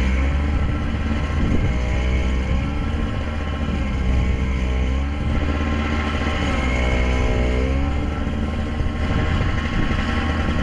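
Toro two-stroke snowblower engine running steadily, its note sagging and recovering several times.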